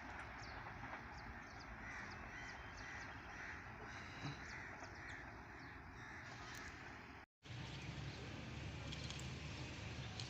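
Crows cawing, a run of repeated calls over faint outdoor background noise. About seven seconds in the sound cuts out for an instant, and a low steady rumble follows.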